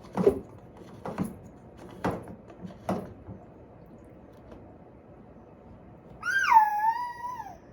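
Four light clicks about a second apart as the washing machine's drain filter cap is being unscrewed, then a house cat meows once, a long sliding call near the end.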